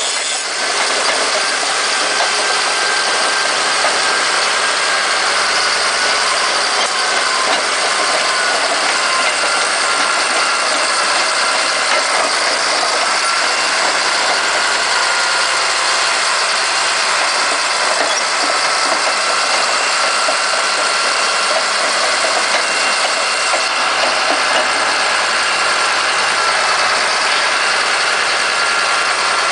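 Caterpillar D7H bulldozer's six-cylinder turbo-diesel engine running steadily, with a steady whine over the engine noise.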